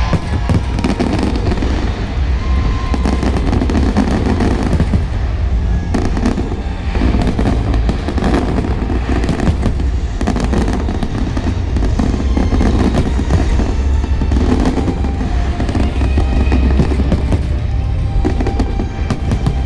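Fireworks going off in a dense, continuous barrage of booms and crackles, with show music playing underneath.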